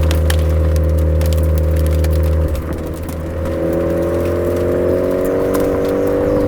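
Suzuki Swift Sport ZC33S's 1.4-litre turbo four-cylinder running through a Fujitsubo aftermarket exhaust on a downhill drive: a steady drone that changes about two and a half seconds in as the throttle or gear changes, then a slow rise in pitch as the revs climb.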